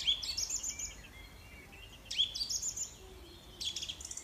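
Birdsong: a small songbird sings three short phrases of chirps and rapid trills, about two seconds apart and then a second and a half apart, over a faint low hum.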